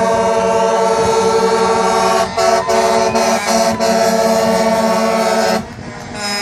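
Truck air horn sounding a long chord of several tones, broken into a few short blasts between about two and four seconds in, then held again until it cuts off near the end.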